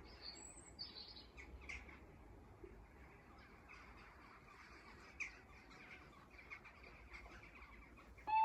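Quiet open-air background with a few faint bird chirps, mostly in the first second or so, and scattered soft ticks. Just before the end a two-tone electronic warning alarm starts, alternating steadily between two pitches.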